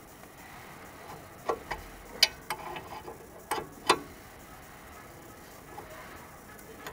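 Light metallic taps and clicks from a wrench working a seized brake caliper guide pin loose, about seven in a couple of seconds, loudest near the middle.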